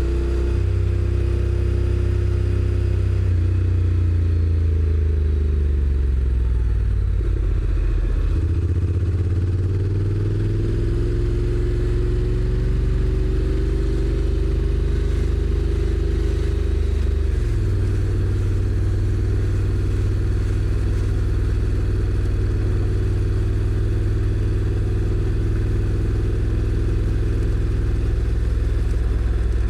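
Honda NC750X DCT's parallel-twin engine heard from the rider's seat: the revs fall as the bike slows, stay low for a couple of seconds, then climb as it pulls away. About 17.5 s in, the pitch drops sharply at an automatic upshift, and the engine then runs steadily at cruising speed.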